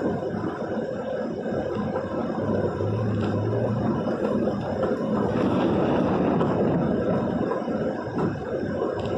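Steady running noise of a vehicle driving through heavy rain, with a low hum coming up for about a second a few seconds in.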